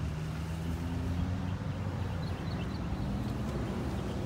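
Steady low hum of an idling vehicle engine, with a few faint high chirps about halfway through.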